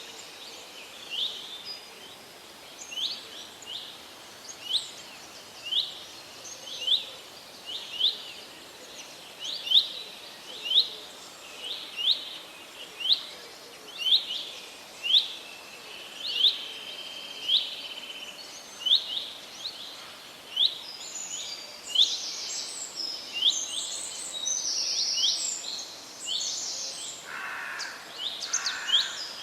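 Forest birdsong over a steady background hiss. One bird repeats a short, sharp chirp about once a second, and other birds join in with a busier mix of calls in the last third.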